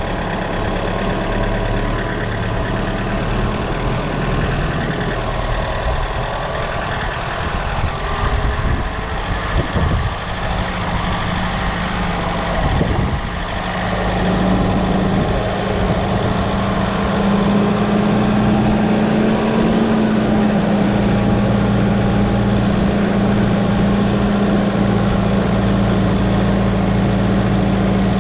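A machine engine running steadily, picking up speed and getting louder about fourteen to seventeen seconds in, with a few knocks before that.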